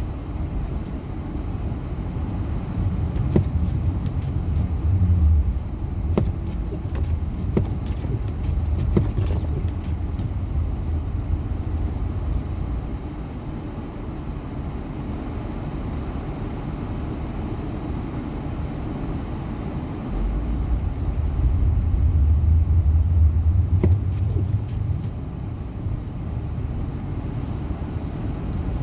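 Truck driving, heard from inside the cab: a steady low engine and road drone, which grows louder for a few seconds about twenty seconds in.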